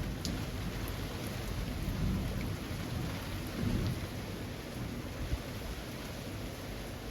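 Steady rain falling among trees, a soft even hiss with scattered drop ticks, over a low rumble that eases off about four seconds in.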